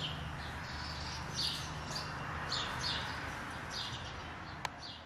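Small birds chirping, short high chirps coming in little clusters every half second or so over a low hum, with a single sharp click near the end.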